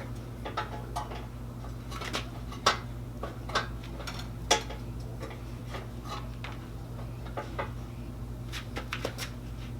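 Irregular metallic clinks and clanks of tools and exhaust hardware being handled during an exhaust install, with two louder clanks about a third and halfway through. A steady low hum runs underneath.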